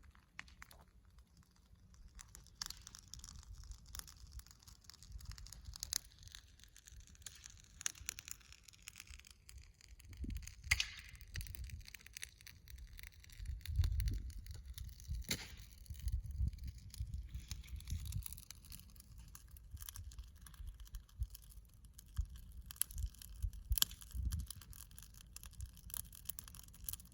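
Wood fire crackling, with irregular sharp pops and snaps over a low rumbling roar.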